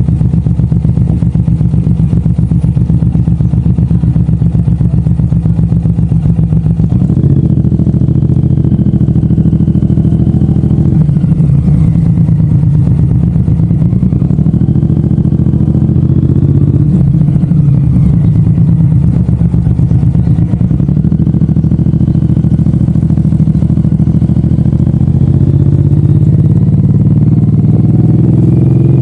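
Suzuki M109R's big V-twin engine running under way, a loud low pulsing note. About seven seconds in the engine note steps up as it pulls harder, it dips briefly a few times, and it rises again near the end.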